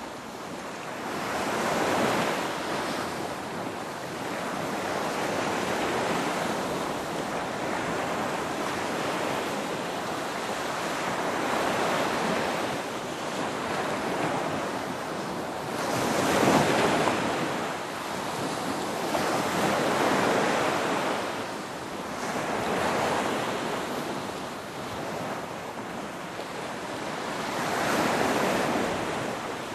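Ocean waves breaking and washing on shore, a continuous surf rush that swells with each wave every few seconds, the biggest about halfway through.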